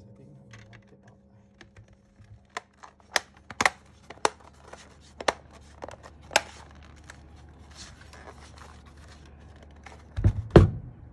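Scattered sharp clicks and taps of mechanical keyboard parts being handled and fitted together during reassembly, with a louder double knock just after ten seconds.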